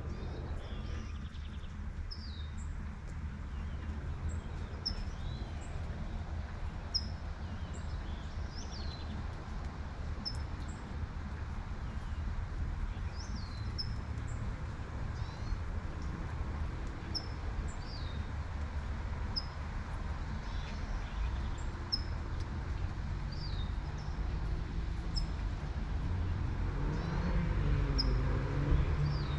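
Light rain over a steady low traffic hum, with a bird chirping repeatedly in short high notes, about one a second. Near the end a car passes and the hum briefly grows louder.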